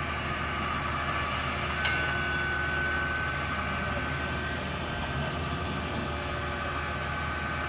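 Idling work-vehicle engines and street equipment running steadily as a low hum. About two seconds in, a thin steady high whine joins it and holds.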